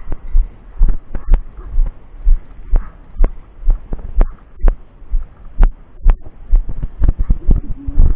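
Footsteps of an airsoft player walking with the camera on his body: low thuds about twice a second, with sharp clicks scattered among them.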